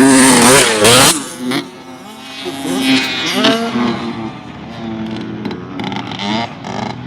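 Dirt bike engine revving, loud for the first second or so and then fainter, its pitch rising and falling with the throttle.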